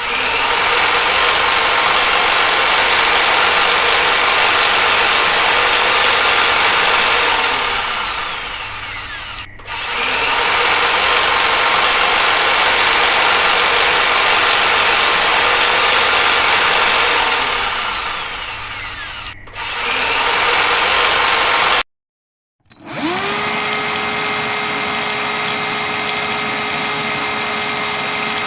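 Electric drill running at full speed, then slowing down with a falling whine, twice over, and starting up again. After a short break a drill with a clearer, steadier whine spins up quickly and runs at constant speed.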